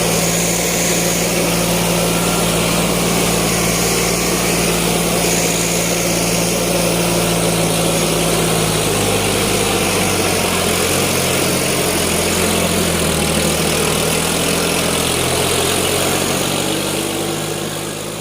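Tractor diesel engine running steadily, its pitch shifting about halfway through as the engine speed changes; the sound fades out near the end.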